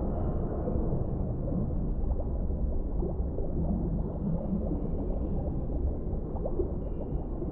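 Underwater ambience: a steady deep, low rumble with many small bubbling, gurgling sounds. Faint thin high tones come and go above it.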